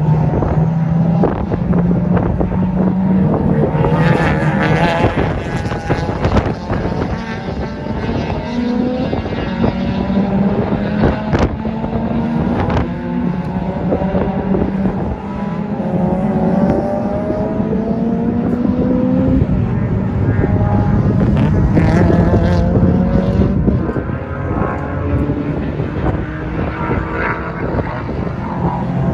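Honda four-cylinder engines revving hard on a race track. The pitch climbs as the cars pull through each gear and drops back at every shift. Wind noise on the microphone runs through it.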